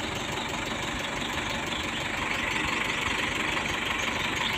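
Truck engine idling steadily, with a fast, even low pulsing.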